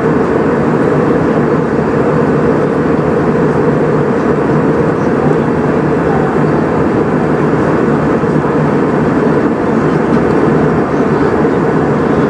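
Steady cabin noise inside an Airbus A320: an even, loud rumble and hiss of the engines and the airflow, unchanging throughout.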